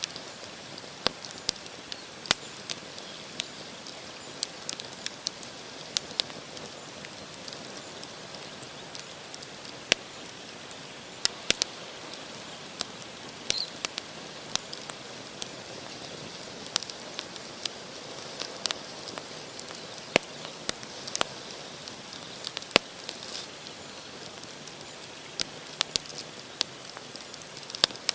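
Campfire of firewood logs burning, crackling with frequent, irregular sharp snaps and pops over a steady hiss.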